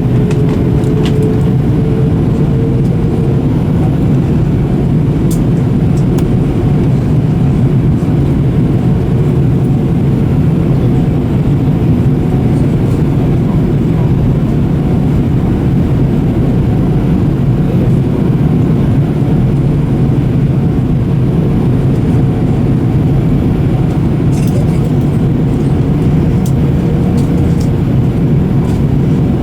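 Steady airliner cabin noise: the jet engines' low drone and airflow heard from inside the cabin, with a faint steady hum.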